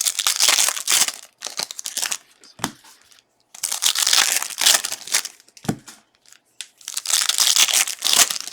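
Foil trading-card pack wrappers being torn open and crinkled by hand, in three bouts of crackly rustling separated by short pauses.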